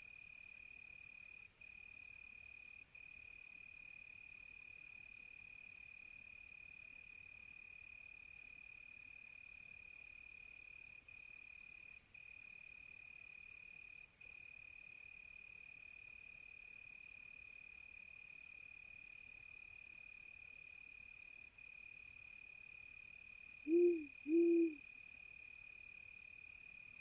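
Crickets chirping in a steady, high, unbroken chorus. Near the end an owl hoots twice in quick succession, low and short.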